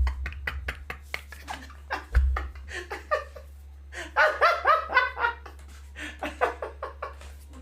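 A person laughing in short rhythmic bursts, the strongest run about halfway through, among many short clicks and a couple of low thumps.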